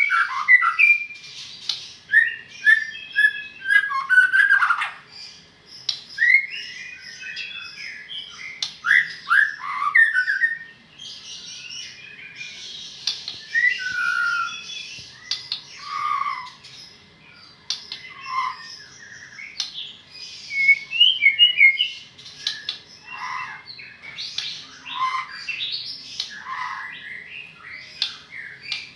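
White-rumped shama (murai batu) singing a long, varied song of quick whistled phrases and slurs mixed with harsh rasping notes, with short pauses between phrases.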